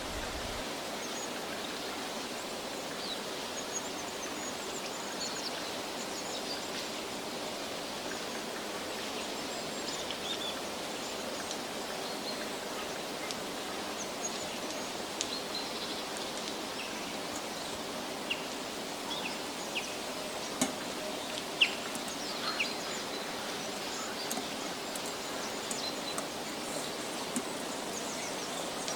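Forest ambience: a steady background hiss with small birds chirping now and then. A few sharp clicks come about two-thirds of the way through.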